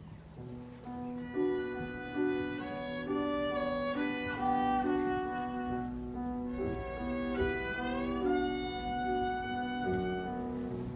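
Violin playing a slow, singing melody with vibrato, starting about a second in, over a lower accompaniment of repeated held chords.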